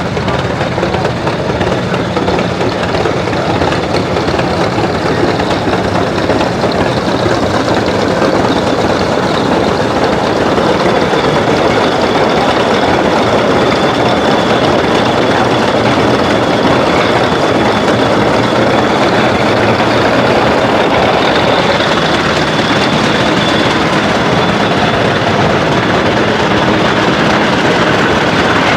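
Steady, loud machinery noise: engines running with a constant hiss, and no clear whistle blast.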